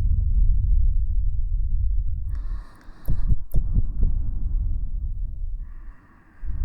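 ASMR trigger worked right against a KU100 dummy-head microphone: a loud, throbbing low rumble that breaks off briefly twice, with a few soft taps about three seconds in.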